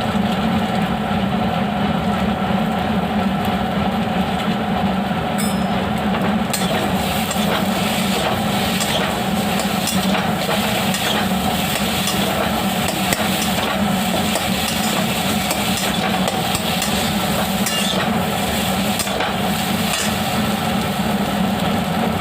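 Spatula stirring and scraping a thick mashed-potato mixture in a metal kadai, with scattered clinks and scrapes, over a steady low hum.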